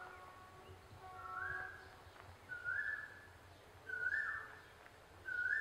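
A bird repeating a short two-part whistled call, a lower note stepping up to a longer higher one, about every second and a half and growing louder.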